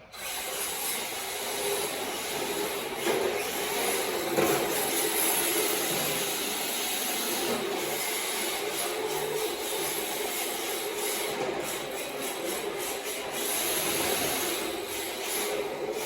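MST RMX 2.0 RC drift car running laps: a steady rasping scrub of its tyres sliding across the track surface, mixed with the whir of its drivetrain, swelling and easing as it drifts through the corners.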